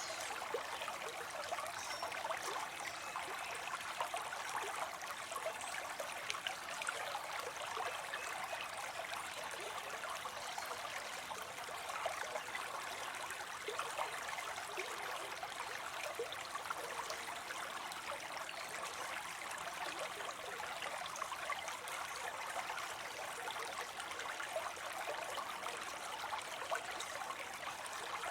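Small waterfall spilling steadily into a pond, a constant splashing and trickling.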